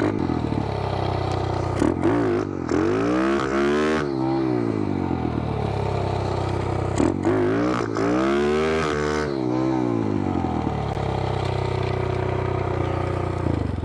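Small single-cylinder four-stroke pit-bike engine running, its revs rising and falling twice as the throttle is opened and closed.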